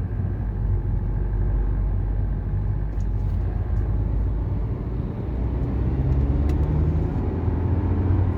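2015 BMW 320d's four-cylinder diesel engine and road noise under acceleration, heard from inside the car. The engine gets louder and climbs in pitch about five seconds in. There is no scraping from underneath: the refastened parking-brake cable no longer rubs on the propeller shaft.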